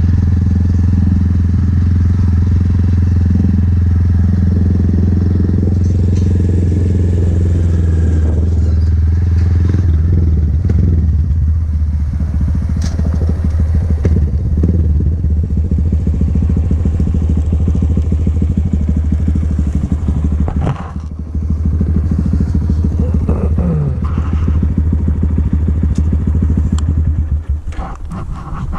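Vehicle engine running at a steady cruise, a deep even drone. It dips briefly about two-thirds of the way through and eases off near the end.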